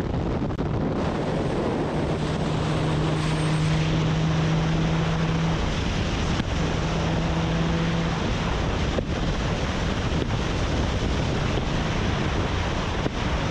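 Wind rushing over the microphone of a moving car, with steady road and engine noise underneath and a low engine drone that holds for a few seconds, twice.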